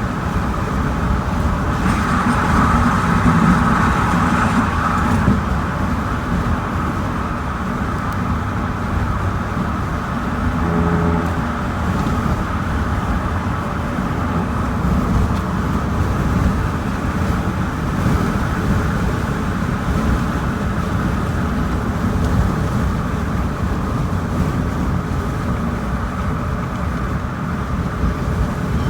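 A vehicle being driven, with steady engine and road noise and a brief louder stretch a couple of seconds in.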